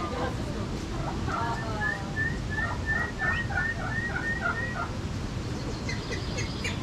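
Domestic fowl calling: a quick run of about ten short, repeated clucking calls, over a steady low background rumble.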